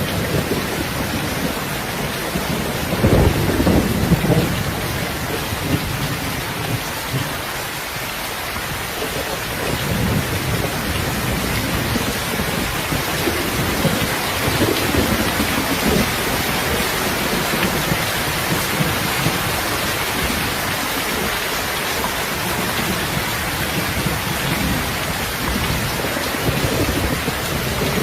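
Steady rain falling, with low rumbles of thunder several times, the loudest about three to four seconds in.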